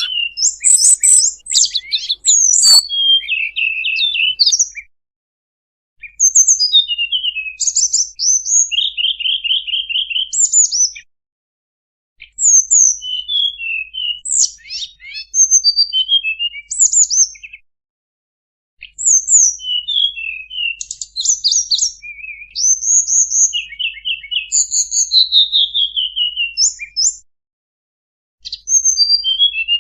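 Recorded song of a tledekan bambu bird, played as a trapping lure: rapid high chirps, short trills and quick whistled glides. The song comes in bursts of about four to five seconds, with abrupt gaps of dead silence about a second long between them, as in a looped lure track.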